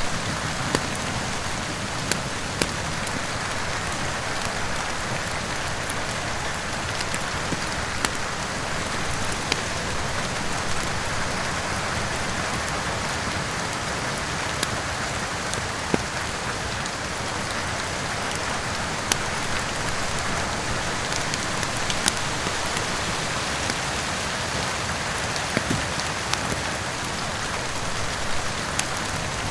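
Steady heavy rain with scattered sharp pops and crackles from a wood fire, one every second or two.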